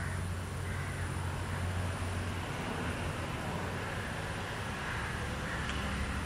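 Steady background ambience: an even hiss with a low hum underneath and no distinct events.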